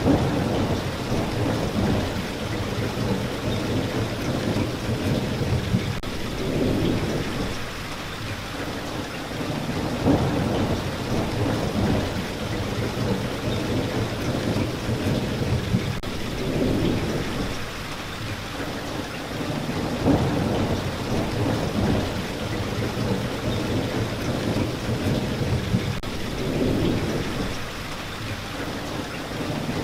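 Steady rain hissing, with low rolls of thunder that swell and fade several times, about every ten seconds.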